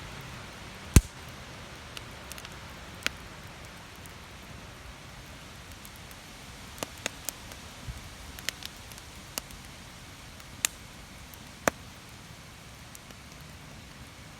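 Campfire crackling, with sharp irregular pops scattered over a steady wind hiss; the loudest pop comes about a second in.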